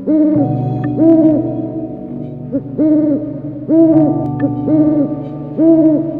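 An animal's short, low, pitched calls repeated about six times, each about half a second long and level in pitch, over a steady sustained background tone.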